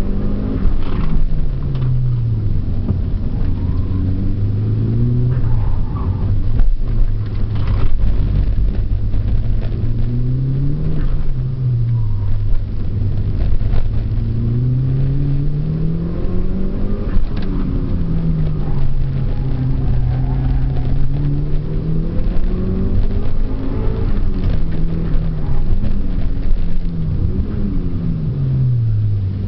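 Mitsubishi Lancer Evolution IV's turbocharged 2.0-litre four-cylinder engine under hard driving on a circuit lap, its pitch climbing under acceleration and dropping away at shifts and braking several times over.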